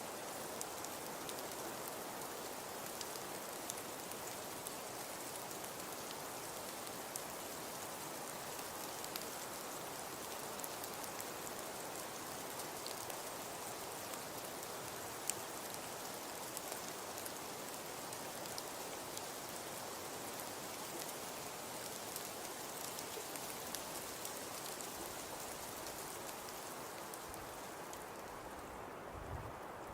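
Fireplace crackling: a steady hiss dotted with many small pops, and one sharper pop about fifteen seconds in. Near the end the hiss thins out and a few low thumps come in.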